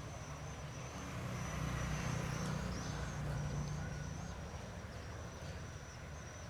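An engine running with a low rumble that swells louder about a second and a half in, then eases off.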